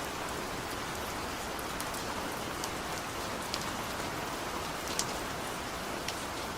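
Steady rain falling, with scattered individual drops ticking out sharply every second or so above the even hiss.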